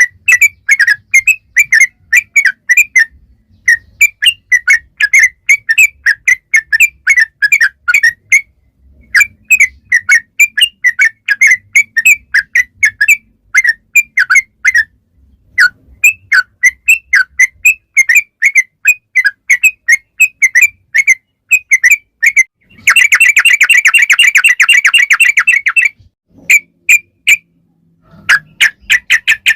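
Yellow-vented bulbul singing in long, fast runs of chirpy whistled notes, several a second, broken by short pauses. Near the end comes a dense, continuous rattling trill lasting about three seconds, then a few more quick notes.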